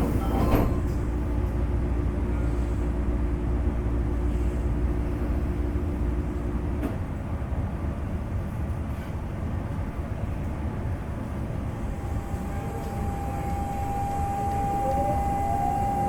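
Onboard running noise of a Semboku 5000 series electric train, with the whine of its Hitachi GTO VVVF inverter. A low steady inverter tone stops about 7 s in. From about 12 s a higher steady whine returns, with rising tones near the end as the motors take power again.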